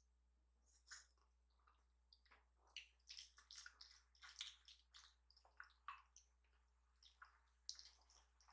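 Faint chewing of chewy rice cakes: soft, wet mouth squishes and small clicks, scattered irregularly.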